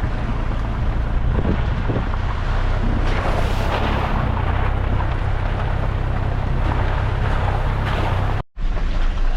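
4x4 truck driving along a wet gravel track: a steady low engine drone under rough tyre, gravel and rain noise. It drops out briefly near the end.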